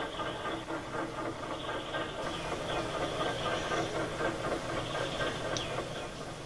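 A train locomotive running steadily, its engine sound pulsing with a regular beat.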